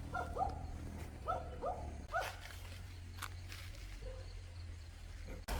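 A dog giving short, high yips in quick groups of two or three, over a low steady rumble.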